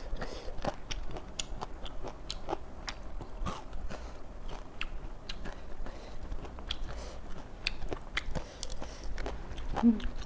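Close-miked chewing and crunching of raw vegetables, with many crisp, irregular crunches throughout. A short low sound stands out just before the end.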